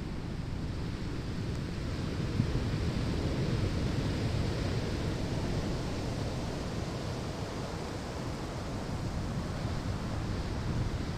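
Ocean waves breaking and washing on a sandy shore, a steady rushing surf that swells gently and eases off.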